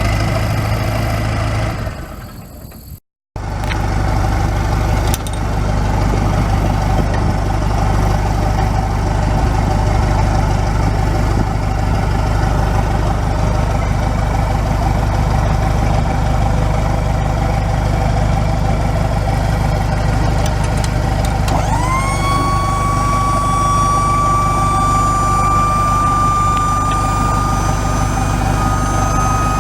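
1992 Isuzu NPR service truck's engine running at idle. The sound fades and breaks off for a moment about three seconds in, then the engine runs on. About 22 seconds in, a high whine joins it, rising quickly and then holding steady, creeping slightly higher.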